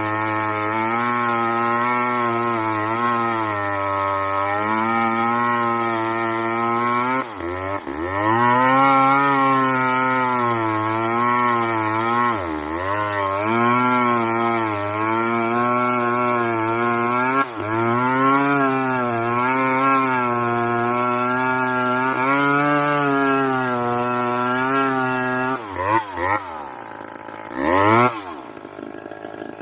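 Two-stroke chainsaw cutting into a tree, its engine pitch wavering and sagging under load and then picking back up several times. Near the end it revs up and down a few times, then drops away to a quieter running.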